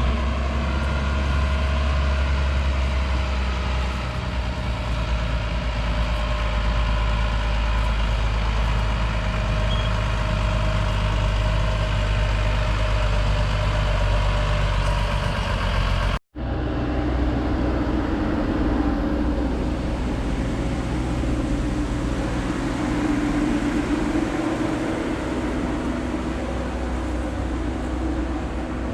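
Mazzotti self-propelled high-clearance crop sprayer running steadily with a low engine hum. The sound cuts out for an instant a little over halfway, then returns with a somewhat different tone.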